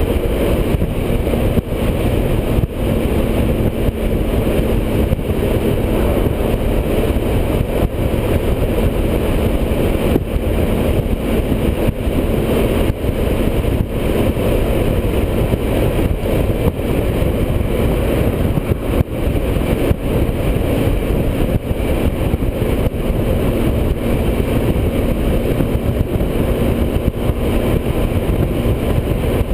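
Motorcycle cruising at highway speed: a steady, loud rush of wind on the microphone mixed with engine and road noise, with a faint steady hum.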